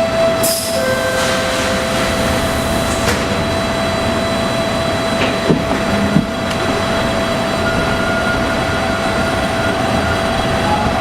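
On board a TTC Bombardier T1 subway car in motion: a steady rumble of wheels on rail under a constant motor whine, with a few sharp clacks over rail joints near the middle.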